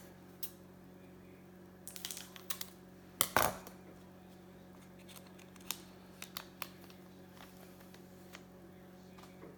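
Baseball cards and pack wrappers being handled: scattered light clicks and crinkles, with a louder burst of handling noise about three and a half seconds in.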